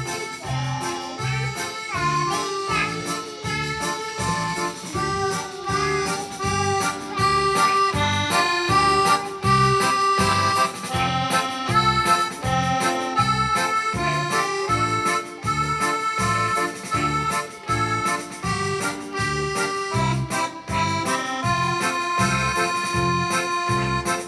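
Electronic keyboard playing a simple melody over a steady rhythmic backing with a regular beat and bass notes.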